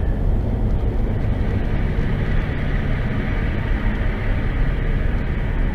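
Steady engine and road noise of a vehicle driving, heard from inside the cabin through a dashcam microphone: a constant low rumble with a hiss of tyre and wind noise above it.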